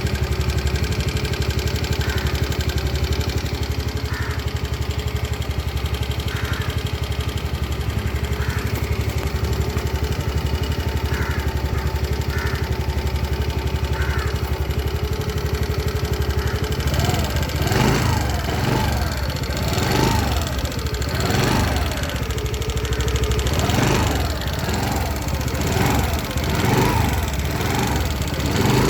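TVS Jupiter 110 scooter's single-cylinder engine idling steadily, then, from a bit past halfway, revved in a series of quick throttle blips, the revs rising and falling each time. The owner finds the engine noisier than on his previous scooter.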